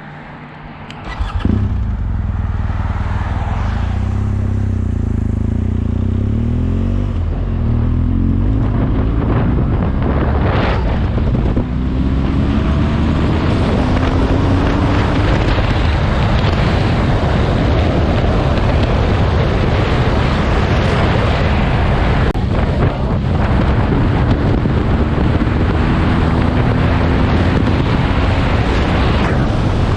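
Motorcycle engine running under way, with wind rushing over the microphone. It comes in loudly about a second and a half in, and its note climbs in pitch several times as the bike accelerates.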